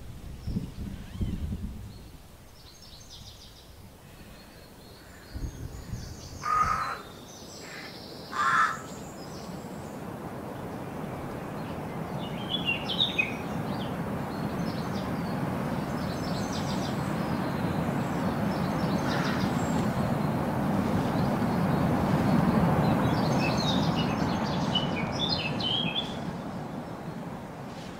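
Birds calling: two loud caws and scattered high chirps. Under them runs a long rumble that swells for over ten seconds and then fades.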